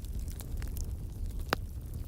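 Outdoor wood fire crackling over a low steady rumble, with scattered small pops and one louder snap about one and a half seconds in.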